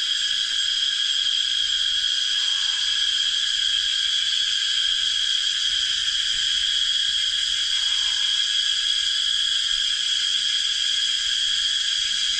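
Dense, steady chorus of jungle insects: a shrill high drone in several stacked pitches that does not let up.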